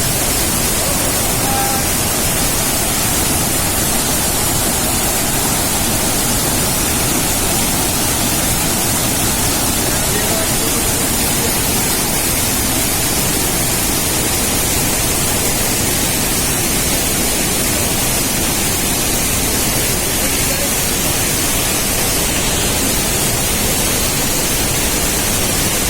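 Waterfall rushing: a loud, steady wash of falling water that never lets up.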